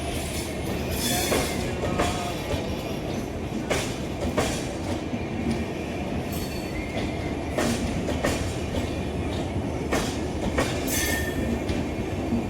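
Express train coaches rolling past at close range: a steady rumble with sharp wheel clacks over rail joints every half second to second and a half, and brief wheel squeals now and then.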